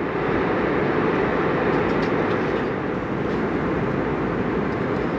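Steady cabin noise inside an Airbus A321neo airliner: an even rush of engine and airflow noise, strongest in its low-middle range.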